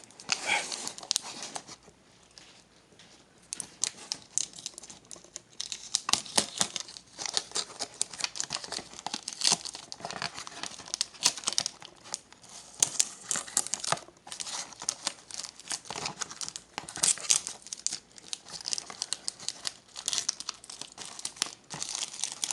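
Plastic wrapping on a trading-card blaster box being torn and crinkled by hand, with dense, irregular crackling and a short quieter pause about two seconds in.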